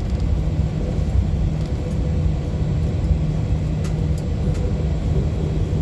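Airbus A321-200 cabin noise on the ground just after landing: a steady low rumble of the idling engines and rolling wheels, with a steady hum running under it.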